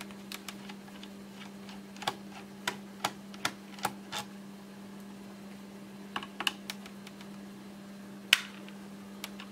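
Scattered small clicks and taps of a screwdriver and screws against a laptop's plastic case as screws are removed one by one, with a sharper knock near the end.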